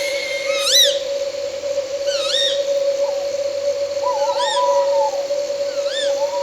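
An owl calling repeatedly, with short rising-and-falling calls about every second and a half and a longer wavering call about four seconds in. Underneath is a steady, unbroken drone of night insects such as crickets.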